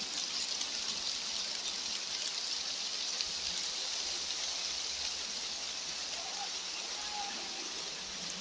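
Steady, even outdoor hiss of weather noise (wind or fine rain), with a few faint short rising tones about six and seven seconds in.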